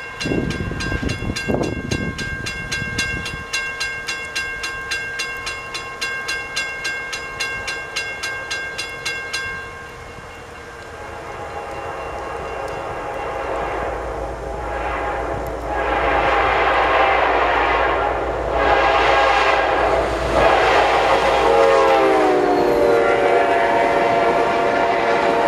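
Grade-crossing warning bell ringing steadily, then stopping about a third of the way in; a diesel freight train then approaches with a growing rumble and sounds its horn, the horn's pitch dropping as the lead locomotive passes the crossing, followed by the train rolling through.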